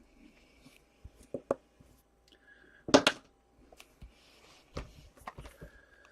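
Hands opening a box of hockey cards: scattered clicks and knocks of cardboard being handled, with a short loud crackle about three seconds in and more around five seconds.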